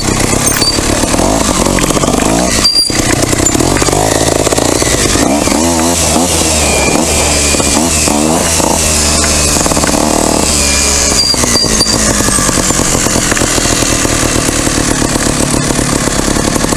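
Off-road trail motorcycle engine running as it is ridden over a rough dirt track, the revs rising and falling several times in quick succession around the middle.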